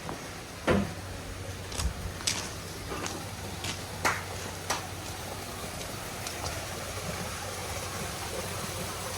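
Steady low engine hum, with a scattered run of sharp knocks and clicks over the first five seconds.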